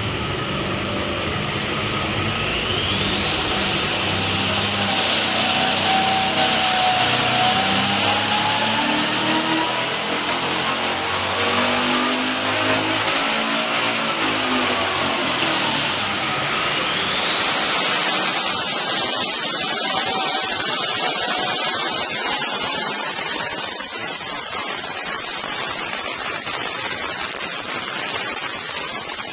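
Twin-turbo 408 V8 under load on the dyno, twice: each time a high turbo whistle climbs over a few seconds to a shrill steady whine and holds over the engine noise, the first run easing off about sixteen seconds in before the second begins.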